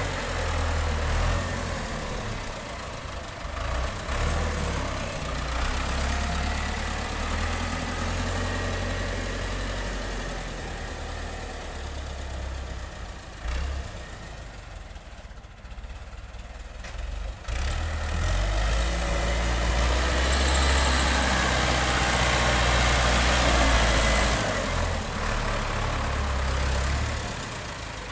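John Deere 8RX 410 tractor's diesel engine running steadily with a deep rumble. It eases off to its quietest around the middle, then grows louder again and holds there.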